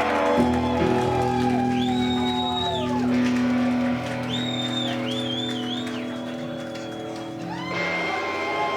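Live band music: held guitar chords with a high lead line that slides up, holds and falls again several times, after a wash of cymbals stops right at the start.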